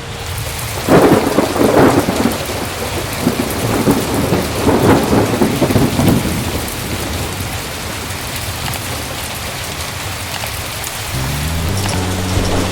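Heavy rain falling steadily, with a roll of thunder about a second in and another around five seconds.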